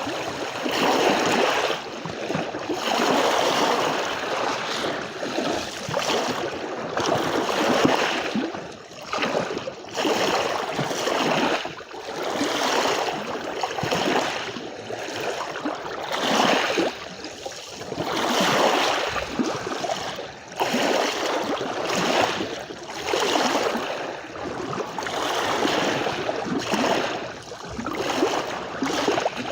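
Small sea waves lapping and washing on a shore, rising and falling in uneven surges every second or two.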